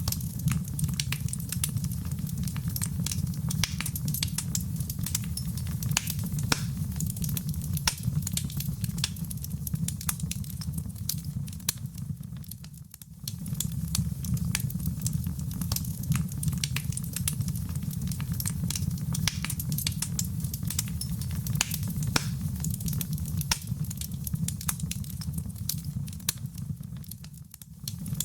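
Wood fire in a fireplace burning steadily: a low rumble of flames under constant sharp crackles and pops. The fire sound dips briefly twice, about halfway through and near the end.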